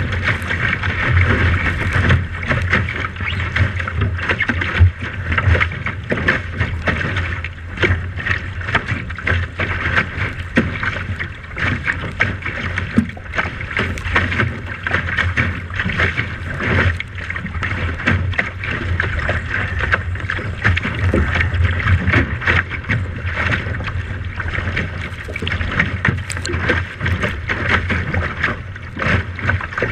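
Wind buffeting the microphone over the steady rush of water and noise of a boat under way, in irregular gusts.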